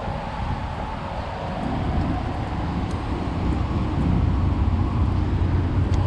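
Road traffic and wind noise: a steady rumble that grows louder about four seconds in.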